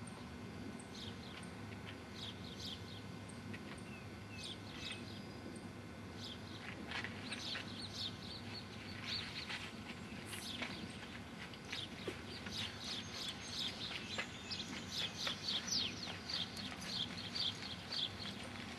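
Birds chirping: many short, high chirps, coming quicker and louder in the second half.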